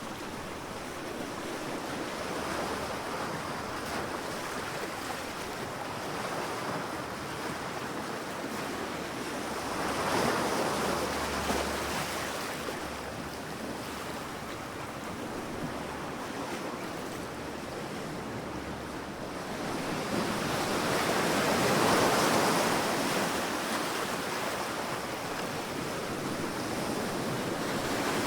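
Sea waves breaking on a beach: a steady wash of surf, with two larger waves swelling and subsiding about ten seconds apart, a little wind on the microphone.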